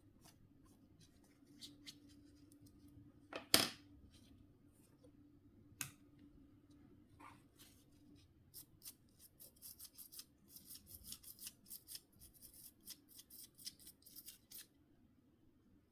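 Small plastic and metal parts of a Nokia C5-00 mobile phone being handled with hand tools during disassembly and cleaning. There is a sharp knock about three and a half seconds in and a lighter one near six seconds, then a quick run of light clicks and scrapes from about halfway through until shortly before the end.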